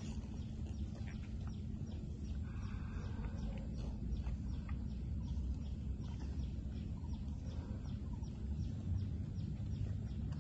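A bird chirping in a quick, even series of short high notes, about three a second, over a steady low rumble of wind.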